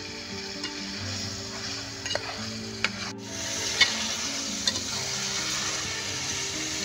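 Potato and cauliflower curry sizzling in an aluminium pan as it is stirred with a metal slotted spoon, the spoon scraping and clicking against the pan a few times. The sizzle gets louder about three seconds in.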